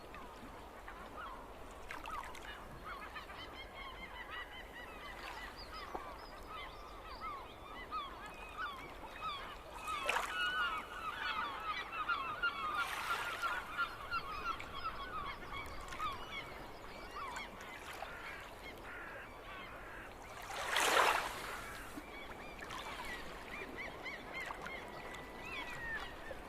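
A flock of gulls calling: many short, overlapping cries, busiest in the middle, with one loud burst of sound about three-quarters through.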